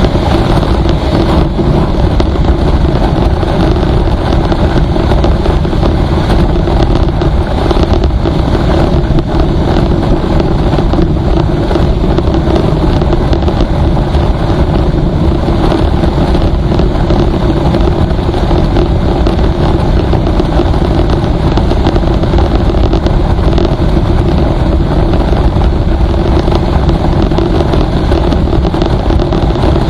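Vehicle travelling steadily at road speed: constant loud engine hum under dense wind and road noise, with no change in pace.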